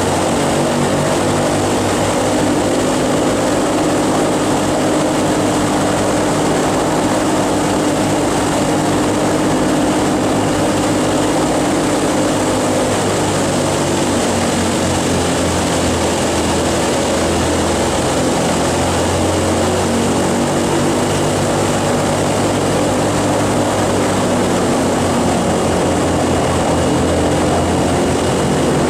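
Boeing B-29's four Wright R-3350 eighteen-cylinder radial piston engines running, a loud steady propeller-driven engine sound with no breaks.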